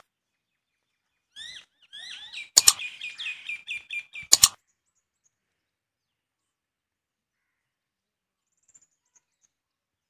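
A small bird chirping: a run of short, high, falling chirps that quickens to about five a second and stops about four and a half seconds in. Two sharp clicks about two seconds apart cut across it, matching the mouse-click sound effects of an on-screen subscribe button.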